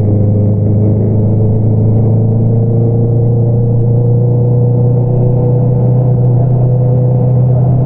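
2022 Honda CBR650R's inline-four engine through an Akrapovič single-outlet exhaust, running at steady revs while riding, its note holding nearly level with a slight rise in pitch.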